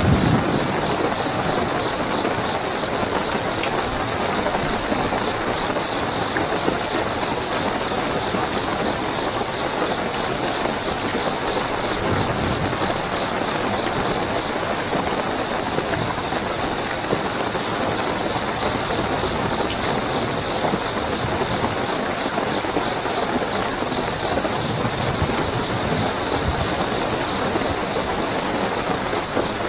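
Steady heavy rainfall with crickets chirping in a continuous high-pitched trill. A low rumble swells right at the start.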